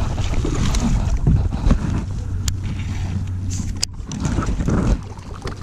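Wind buffeting the microphone in a steady low rumble, easing off near the end, with two sharp clicks in the middle.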